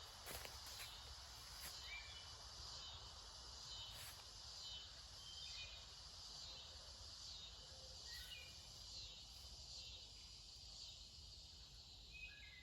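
Faint woodland ambience: a steady high insect drone with a few short bird chirps scattered through it.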